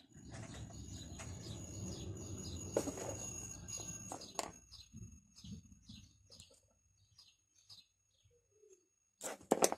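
Small birds chirping over and over in short, quick calls, over a low rumble that fades after about six seconds. A few sharp plastic clicks come as multimeter test probes are pushed into a plug socket, and there is a louder clatter near the end.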